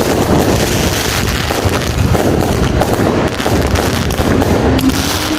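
Fireworks and firecrackers going off in a dense, continuous run of crackling bangs.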